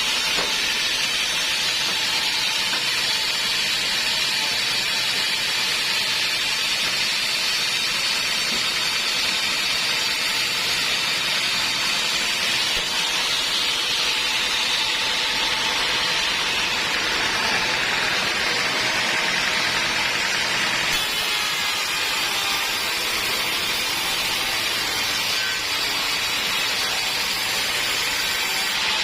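Sawmill blade cutting lengthwise through teak wood, a steady loud hissing saw noise with a faint machine hum under it, shifting slightly in tone a couple of times as the cut goes on.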